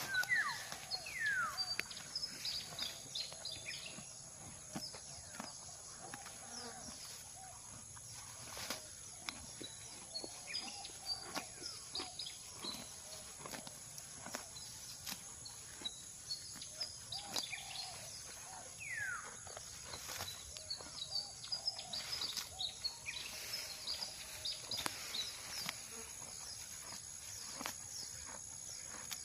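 Cow grazing: irregular crisp rips and crunches of grass being torn and chewed. Over it, a steady high insect drone, and a bird gives falling whistles near the start and again about twenty seconds in.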